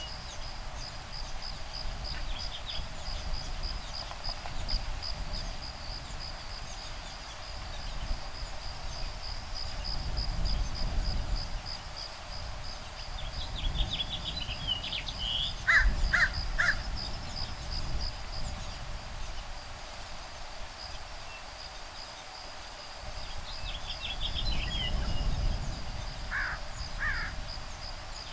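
Woodpeckers calling in short groups of harsh notes, twice, over a steady, fast-pulsing high insect trill and a breeze that swells and fades.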